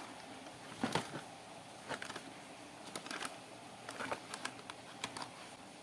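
Faint, scattered clicks and rustles from handling a remote-control toy car and its packaging, several light taps over the few seconds.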